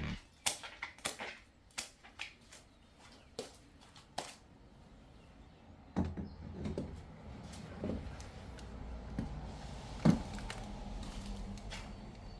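Irregular clicks and knocks from handling things in a small room. A low steady hum comes in about six seconds in, and one louder thump follows about ten seconds in.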